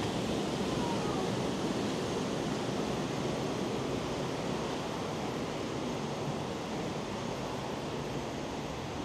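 Steady rush of running river water, slowly growing fainter.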